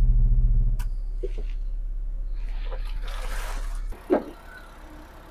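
2024 JAC JS5's engine running at idle, a low steady drone heard from inside the cabin, loudest for the first second, then settling lower, with a single click about a second in. The drone stops abruptly about four seconds in, leaving only a faint background.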